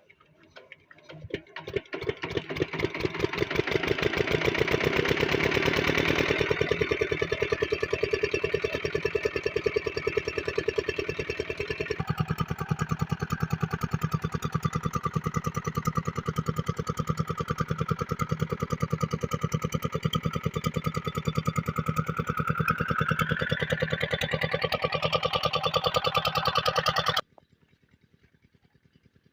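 8 hp diesel water-pump engine starting up and picking up speed over the first few seconds, then running steadily with an even, rapid firing beat. The sound stops abruptly near the end.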